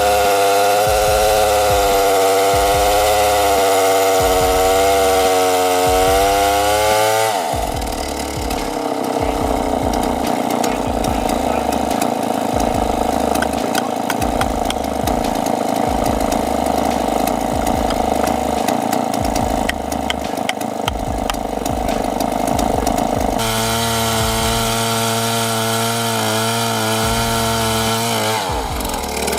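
Chainsaw running at high revs with its pitch wavering, then for about fifteen seconds a rougher, noisier sound with crackling, as the chain cuts into wood. It then revs steadily again and falls away near the end.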